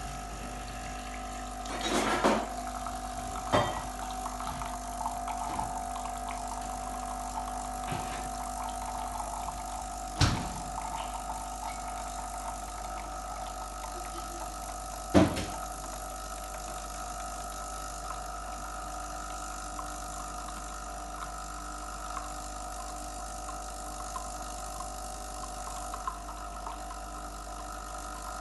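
Tchibo coffee machine's pump running with a steady hum while coffee fills the cup. A few knocks come in the first half.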